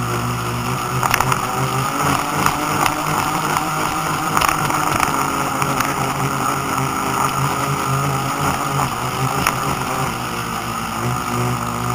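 A boat's motor running steadily, with water noise and scattered sharp splashes or knocks against the hull.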